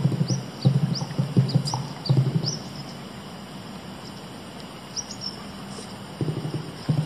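Small birds chirping in short, rising chirps. The chirps sit over two bursts of rapid, low clicking or rattling, one in the first two and a half seconds and one starting near the end.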